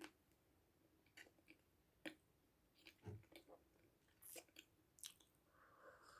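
Faint, close-miked mouth sounds of a person chewing and biting food: scattered short crunches and clicks, with a duller thump about three seconds in.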